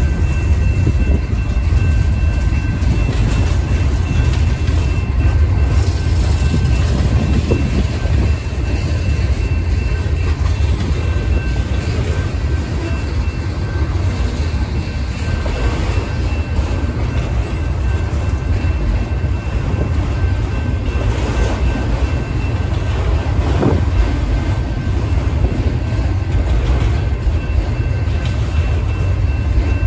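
Freight train cars, mostly autoracks, rolling past at close range: a steady low rumble of steel wheels on rail with occasional clatter, and a faint steady high whine throughout.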